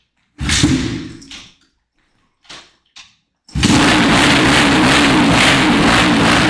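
Dirt bike engine: a brief burst that dies away about half a second in, then about three and a half seconds in it starts and runs steadily and loud.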